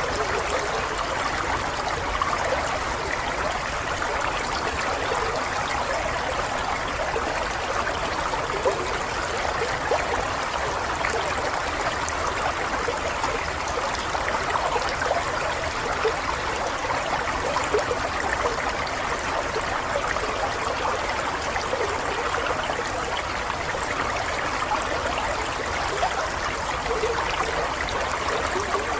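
Running water, a stream or brook flowing and trickling steadily, with small gurgles and splashes flickering through it.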